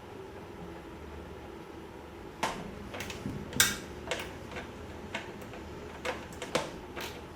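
A string of sharp clicks and knocks at irregular intervals, starting about two and a half seconds in, the loudest just after halfway: hard parts and hand tools being handled while the mower's engine is put back together.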